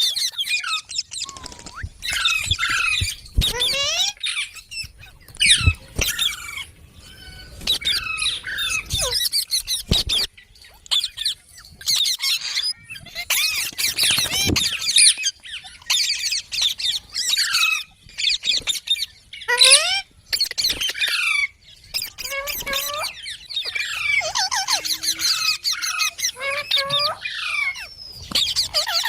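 Pet parrots squawking and chattering in rapid bouts of harsh, gliding high-pitched calls, with short pauses between bouts.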